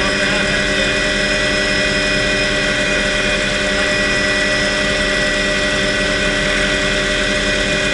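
Helicopter running steadily, with a constant high turbine whine over an even engine hum.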